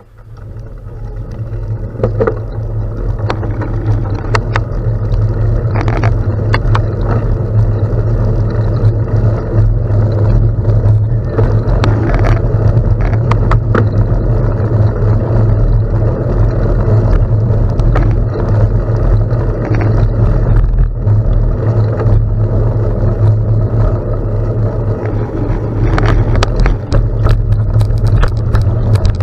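Wind rushing over the microphone of a bicycle riding fast on a gravel road, building over the first two seconds, with frequent small clicks and crackles from the tyres and the bike over the stones.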